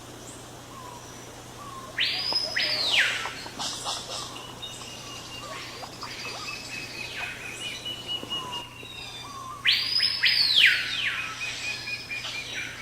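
Jungle birds calling: loud calls that sweep sharply up and then slide back down, loudest about two seconds in and again near ten seconds. Between them, another bird gives rapid runs of short repeated notes.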